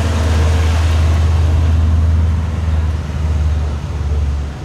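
A supercar's engine running with a deep, steady rumble, loudest over the first two seconds or so and then easing off as the car moves on.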